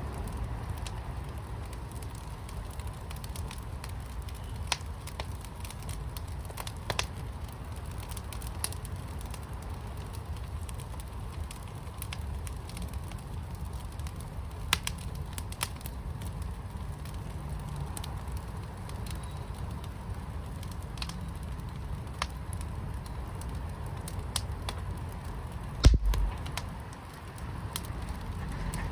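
Wood fire in a fire pit crackling, with scattered sharp pops over a steady low rumble, and one louder thump near the end.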